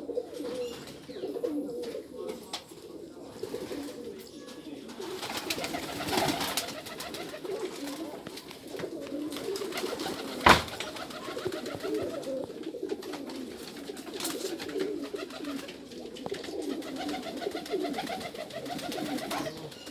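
Several domestic pigeons cooing at once, their low calls overlapping without a break. A single sharp click sounds about halfway through.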